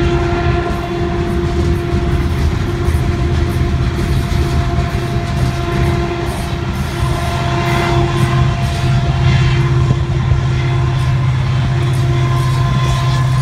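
Union Pacific freight train rolling past, its cars' wheels clattering steadily on the rails. About halfway through, the low, steady hum of the train's diesel locomotives grows louder as they come by.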